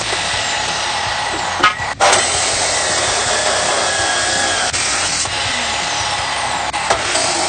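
A power tool running steadily with a rough, even noise, broken by abrupt cuts about two seconds in and again later on.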